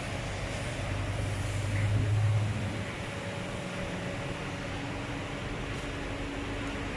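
Steady low machine hum with a wash of noise, swelling louder about two seconds in and then settling back, with a faint steady whine above it.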